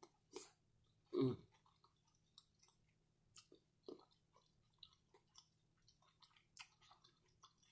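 Close-up chewing of a mouthful of cheesy shrimp nachos: quiet, wet mouth clicks and smacks scattered through, with one louder mouth sound about a second in.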